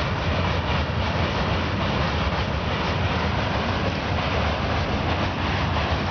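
Train crossing a steel truss railway bridge: a steady, unbroken rumble of wheels and coaches rolling over the girders.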